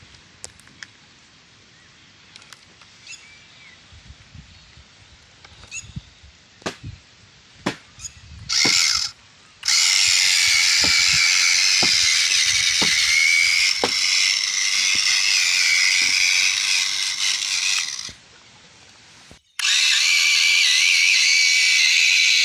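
Small electric motor and plastic gearbox of a remote-control toy tractor whining and grinding in two long runs, each starting and stopping abruptly, with scattered clicks and knocks before the first run.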